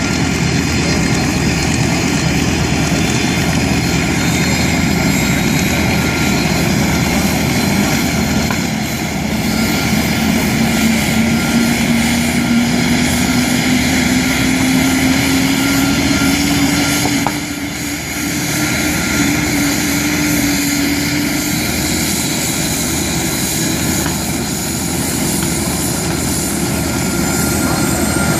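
Aircraft engine noise from a plane in flight: a loud, steady rushing sound with an engine tone that slowly rises in pitch through the middle and fades out.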